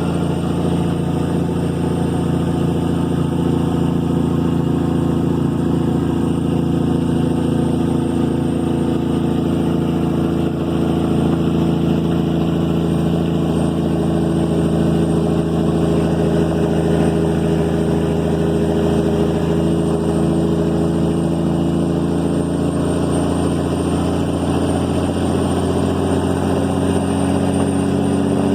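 Caterpillar 3406E inline-six diesel running through 8-inch straight pipes, pulling steadily under load at a constant speed, its pitch creeping up a little near the end.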